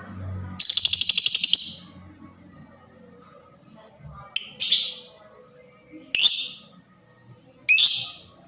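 Lovebird calling: a loud, fast rattling trill lasting about a second, followed by four short, shrill calls spread over the next few seconds.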